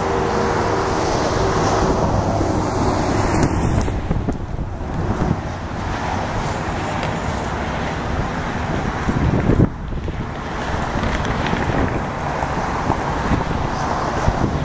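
Airbus A321-211 jet engines (CFM56) at takeoff thrust, a steady loud rumble, with wind buffeting the microphone.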